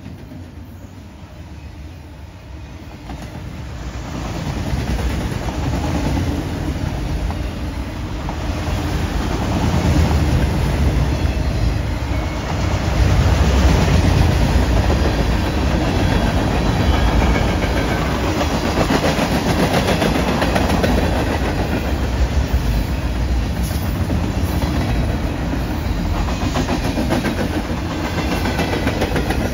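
Train approaching and passing close by: its sound builds over the first ten seconds or so, then stays steady and loud as the cars roll past.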